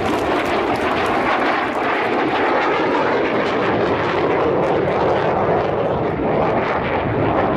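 Fixed-wing aircraft flying past, its engines heard as a steady, dense rush of noise.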